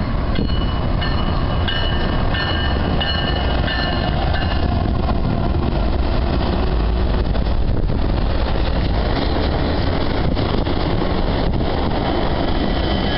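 A passenger train rolling past on the rails with a steady, loud rumble, with a thin high-pitched ringing from the wheels in the first few seconds.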